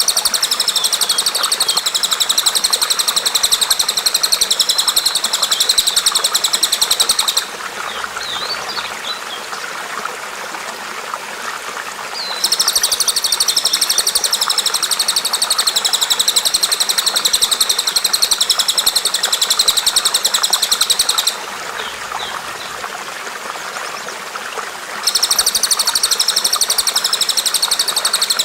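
A small songbird's rapid, high, buzzy trill, given in long bouts of about seven to nine seconds. The bouts break off about seven seconds in, resume at about twelve, stop at about twenty-one and start again at about twenty-five. Between the bouts only a steady hiss and a few faint chirps remain.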